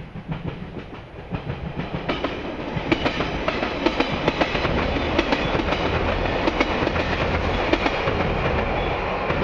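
Electric multiple-unit train running across a steel girder railway bridge: the wheels clack over rail joints above a low rumble from the bridge. It grows louder over the first couple of seconds, then stays steady as the cars pass.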